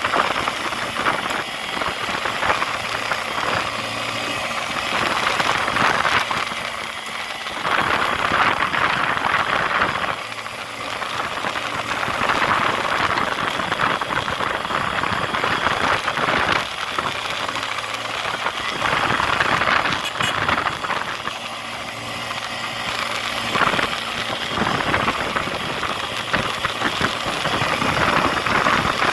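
An engine running steadily, with a noisy hiss that swells and fades every few seconds.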